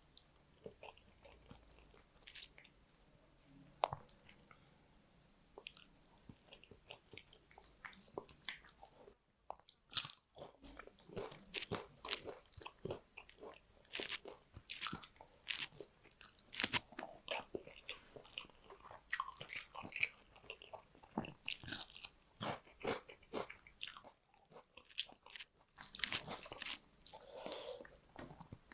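Close-miked eating: wet chewing with crisp crunches and mouth clicks as rice and fish curry are eaten. The sounds are sparse at first and become steady chewing after about eight seconds.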